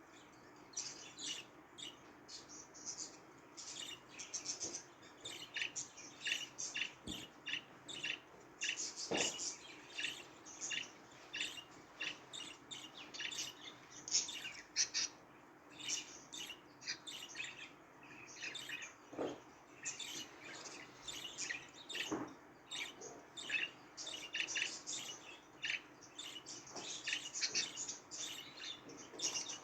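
Budgerigars chirping and warbling: a continuous stream of rapid, high, short chirps, with a few soft clicks now and then.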